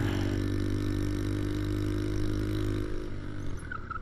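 Motorcycle engine idling steadily, which fades away about three seconds in. A brief wavering high tone follows near the end.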